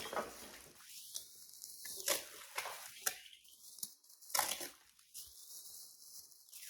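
Scattered light clicks, knocks and rustles from small vintage metal tins and their wrappings being handled.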